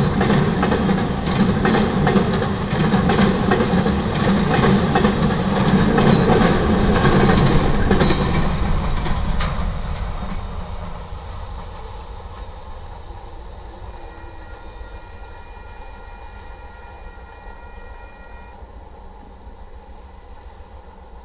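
Freight train cars rolling past a grade crossing: a loud rumble with rapid wheel clicks on the rail joints. It fades away after about ten seconds as the last cars go by.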